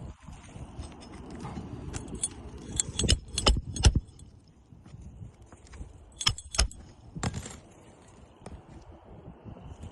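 Metal roofing hand tools clinking and knocking as a replacement asphalt shingle is worked into place: a low scraping rustle, then sharp metallic clicks in two clusters, about three to four seconds in and again around six to seven seconds in.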